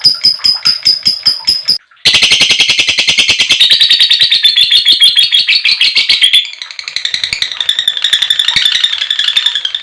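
Female lovebird's long, high-pitched chattering call (ngekek panjang). Shrill notes repeat steadily at first, break off briefly just before two seconds in, then run on as a much faster unbroken chatter that turns somewhat softer after about six seconds.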